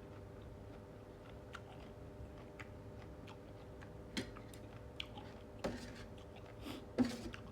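A person chewing and eating, with small wet mouth clicks and a few louder mouth sounds about four, five and a half, and seven seconds in, over a low steady hum.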